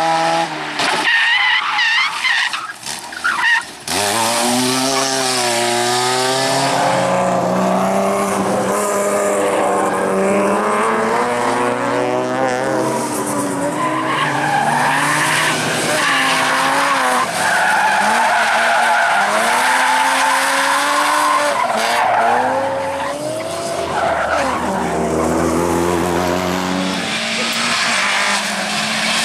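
Rally car driven flat out: the engine revs hard, its pitch repeatedly climbing and then dropping at gear changes and lifts, with tyres squealing and skidding through the corners.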